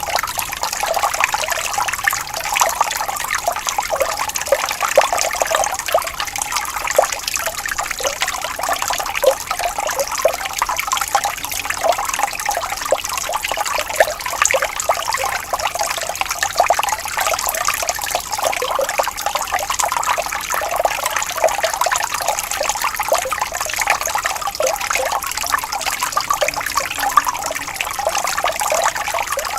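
Shallow water flowing and trickling, a steady babble of small splashes.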